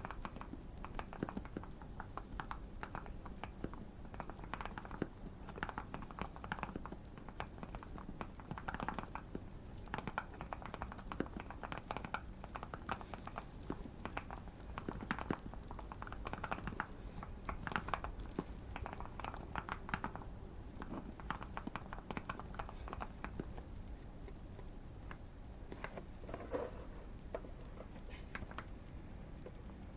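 Typing on a Keychron Q1 mechanical keyboard, tape- and foam-modded for a deeper, thocky sound: runs of quick keystrokes with short pauses, sparser in the later part, over a faint crackling fire.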